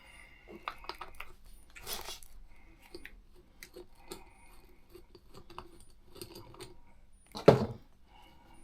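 Small metal tools and parts being handled on a workbench: light clicks and metallic rattling, with one louder thump near the end.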